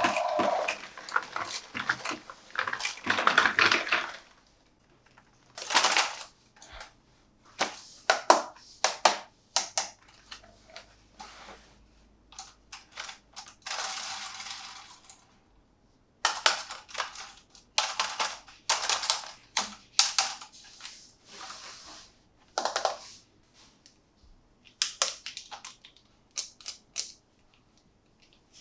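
Toy packaging and a plastic toy truck being handled: irregular clicks, taps and short crinkling bursts with brief pauses between them, densest in the first four seconds.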